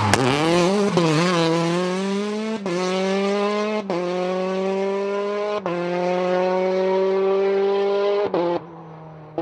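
Rally car engine pulling hard through the gears. The note dips and wavers at first, then climbs, broken briefly by three quick upshifts. The engine sound drops away abruptly near the end.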